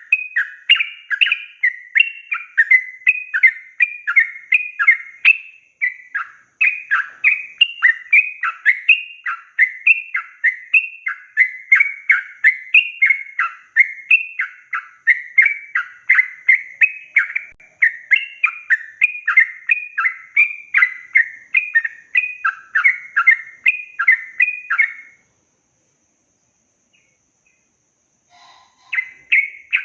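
Yellow-vented bulbul (trucukan) singing a long, fast run of bubbly chirping notes, about three or four a second. It stops about 25 seconds in and starts again just before the end.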